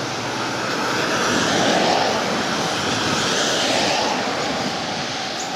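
A passing vehicle: an even rushing noise that swells about two seconds in and then eases off.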